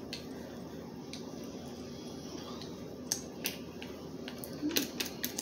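Light, sharp clicks and taps of small objects being handled on a table while clearing up, scattered at first and coming in a quick cluster near the end.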